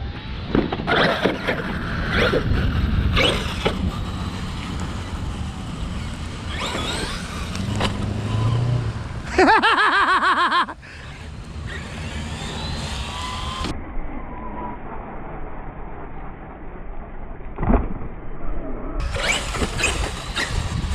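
Electric RC trucks' motors whining up and down in pitch as they accelerate and slow, over a steady hiss of tyres on wet concrete. There is a loud, fast-warbling whine about halfway through, and a few short knocks.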